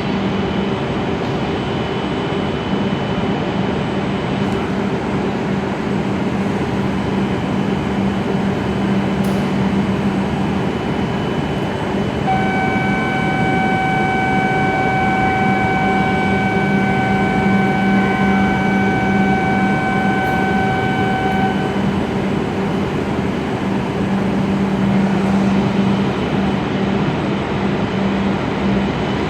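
E7-series Shinkansen train pulling out of the platform, a steady rumble of running noise with a low hum. For about ten seconds in the middle a steady high tone with overtones sounds over it.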